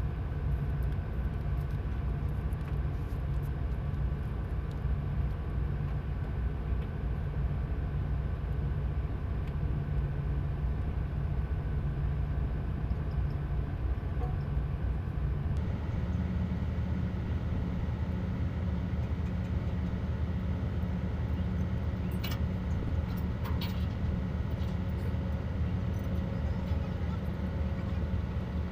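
Tugboat's diesel engine running steadily, a low drone heard aboard. About halfway through the drone shifts abruptly in tone, and a few faint clicks come near the end.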